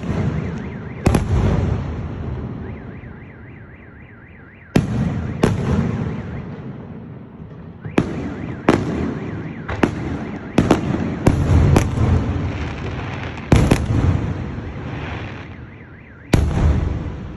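Large aerial firework shells bursting overhead: about a dozen deep booms, each trailing off in a long rumbling echo, spaced a few seconds apart at first and coming in a quick run of bangs from about eight seconds in.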